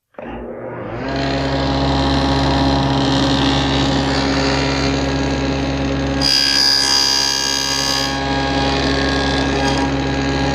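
SawStop table saw with a stacked dado blade starting up and running steadily at speed. About six seconds in it cuts through wood for roughly two seconds, taking a shallow pass to sneak the cut depth up to a layout line.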